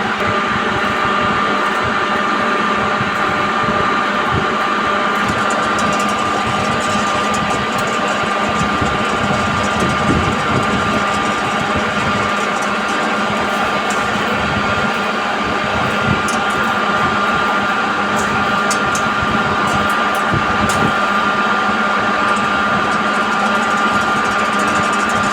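Train running: a loud, steady mechanical hum with a constant high whine and scattered light clicks.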